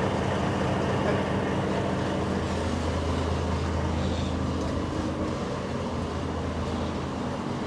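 Heavy recovery truck's diesel engine running steadily with a constant low hum while it works its crane.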